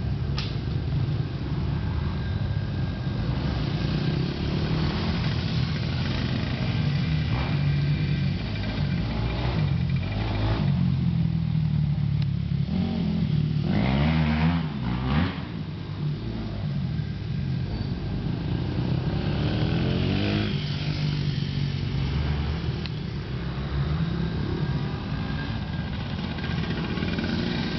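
Dirt bike engine running continuously, revving up and down as it rides the track, with the strongest rise and fall in pitch about halfway through and another a few seconds later.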